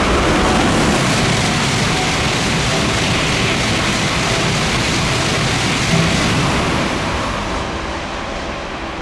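Tokaido Shinkansen train passing through the station at high speed: a loud rush of air and wheel noise that swells at the start, holds, and fades away over the last few seconds.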